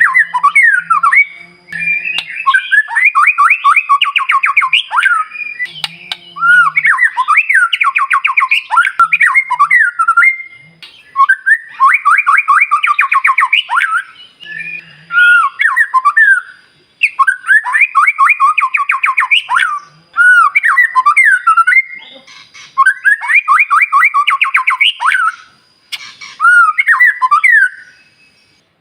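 White-rumped shama singing loud phrases of fast trills, each two to three seconds long, repeated again and again with short pauses between them.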